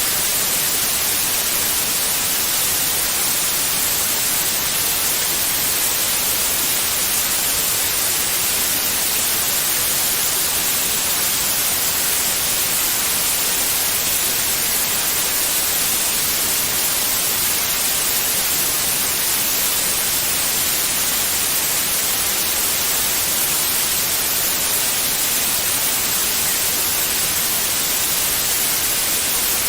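Steady electronically generated white noise, an even hiss with most of its energy in the high frequencies, played as a sleep aid for babies.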